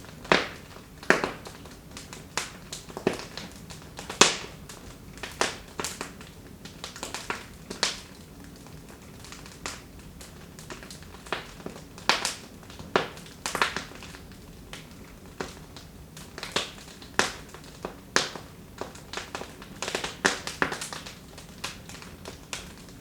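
Wood fire in a fireplace crackling, with sharp irregular pops and snaps a few times a second over a faint low burning hiss.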